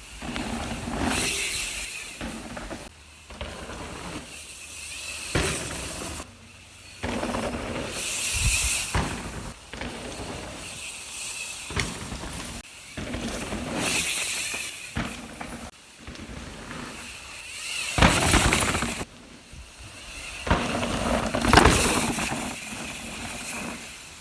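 Mountain bike ridden fast down a dirt trail: a rush of tyre and air noise that swells and fades every few seconds, with the chain and frame clattering sharply over rough landings, loudest about five seconds in and near the end.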